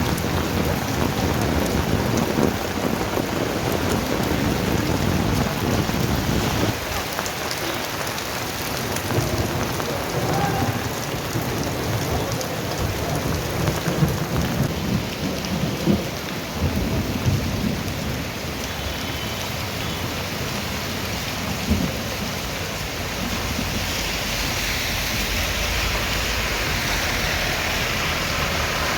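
Steady rain with low, rolling thunder rumbling through much of it, swelling and fading. A few sharp knocks come about halfway through.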